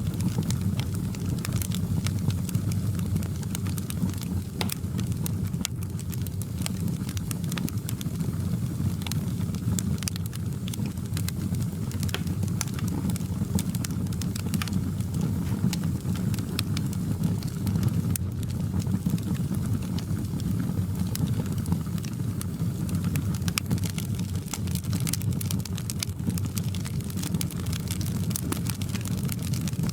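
Wood fire crackling in a fireplace: scattered, irregular pops and snaps over a steady low rumble.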